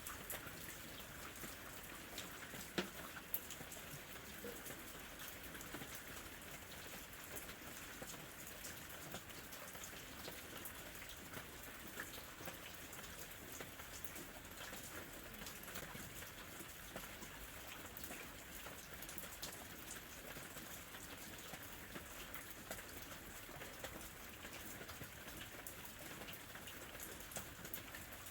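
Gentle rain falling steadily, the individual drops heard as many small clicks on a surface over a continuous hiss. Two louder drop hits stand out about three seconds in.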